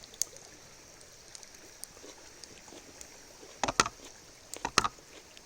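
Steady rushing of a river in flood, with two short clusters of sharp knocks or clatters about four and five seconds in.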